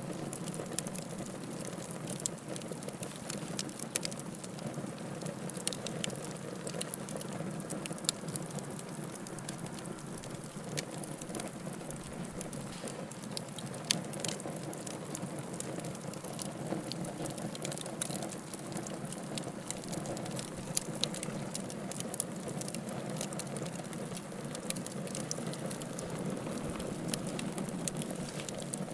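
Wood fire burning in a fireplace, crackling steadily with many small sharp pops and a louder pop about halfway through, over a soft low rush of flame.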